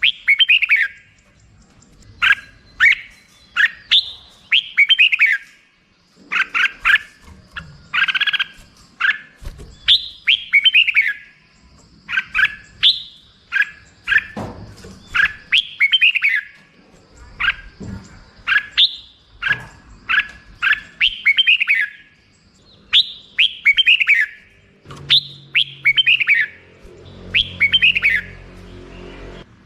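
Red-whiskered bulbul singing: short chirpy phrases of quick falling notes, repeated every second or two.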